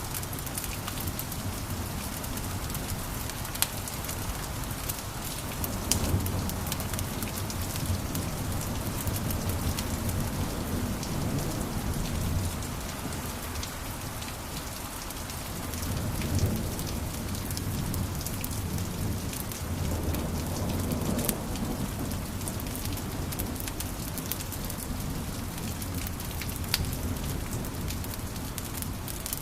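Wood fire crackling and popping steadily, with a low rumble of flames swelling now and then.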